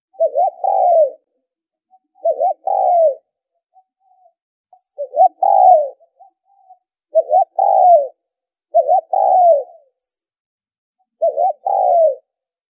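Spotted dove cooing: six phrases about every two seconds, each a quick stuttered pair of notes followed by a longer coo that falls in pitch.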